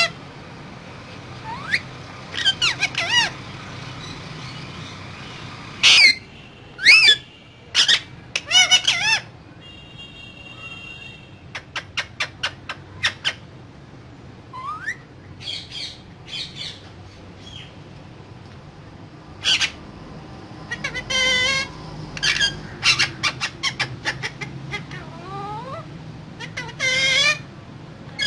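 Pet Alexandrine parakeet calling in irregular bursts: harsh squawks and warbling chatter separated by short pauses, with the loudest screeches coming in a cluster about a third of the way in.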